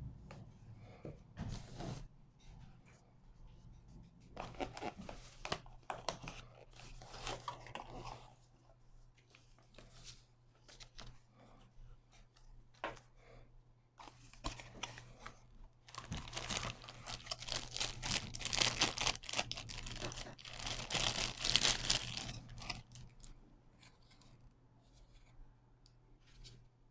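Unboxing sounds: packaging being handled, with plastic or paper crinkling and tearing and scattered clicks and taps. The crinkling is densest and loudest in a long stretch past the middle. A faint low hum runs underneath.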